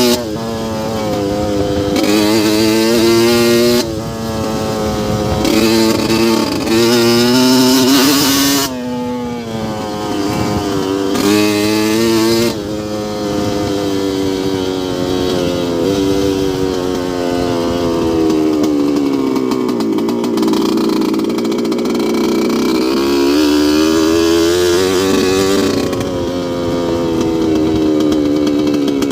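2002 Yamaha YZ125's single-cylinder two-stroke engine running hard. In the first half its pitch climbs over a few seconds and drops abruptly, about four times. Later the revs rise and fall more slowly at a lower pitch.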